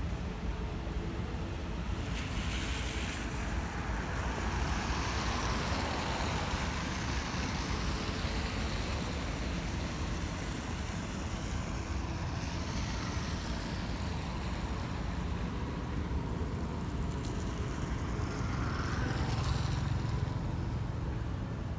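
Road traffic passing on wet tarmac: a steady low rumble with tyre hiss that swells and fades as several vehicles go by.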